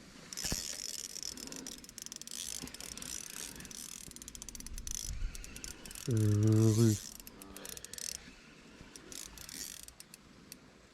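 Small spinning reel being cranked, its gears and rotor clicking rapidly as line is wound in. About six seconds in, a short voiced sound from a man cuts across it.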